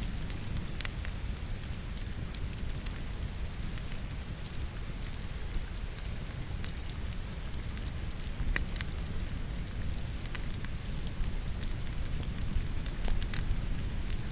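Wood logs burning in a fireplace, crackling with irregular sharp pops, over the steady patter of falling rain.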